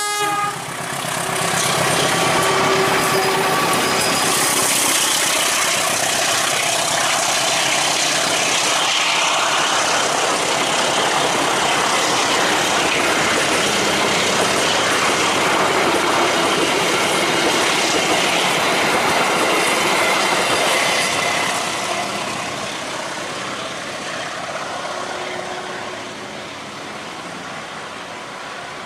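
Passenger train hauled by a diesel locomotive passing close by: the locomotive goes by first, then the coach wheels run on the rails with a loud, steady noise for about twenty seconds. The noise fades from about two-thirds of the way through as the train moves away.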